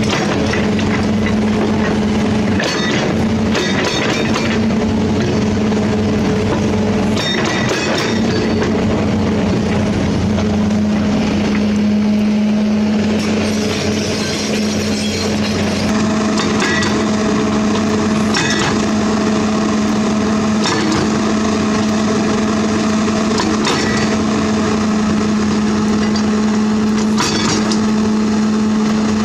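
Heavy construction machine's diesel engine running steadily, with several sharp clanks and knocks of the working equipment spread through.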